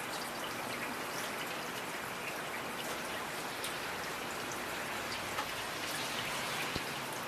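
Steady rain falling, with individual drops pattering and ticking on a surface.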